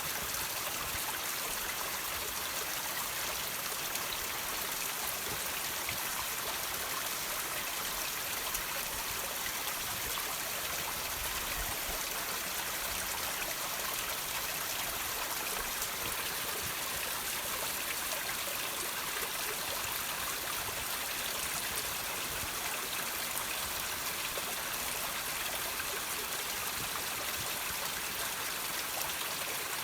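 Water dripping and trickling from rocks, a steady even patter of many small drops and runs of water.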